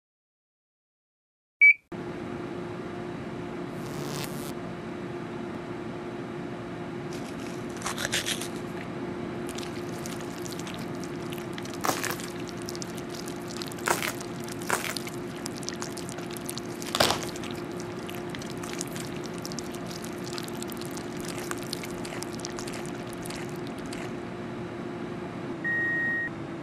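Microwave oven switched on with a click about two seconds in, then running with a steady hum, with scattered sharp pops, crackles and squishes from the food cooking inside.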